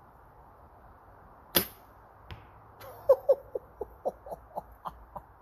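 Diamond Razor Edge compound bow loosing an arrow, a single sharp snap of the string about one and a half seconds in, with a faint click under a second later. From about three seconds in comes a run of short, sharp chirps, about four a second.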